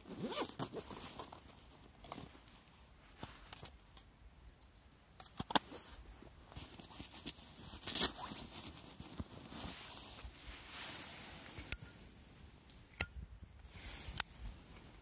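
Close handling sounds: rustling and rasping with a few sharp clicks and taps scattered through.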